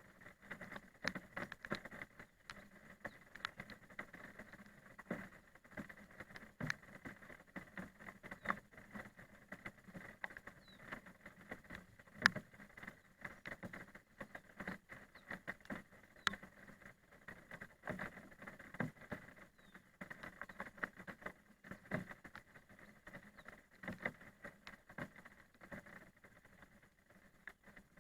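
Rain pattering: single drops tapping irregularly on a nearby surface over a faint, steady hiss.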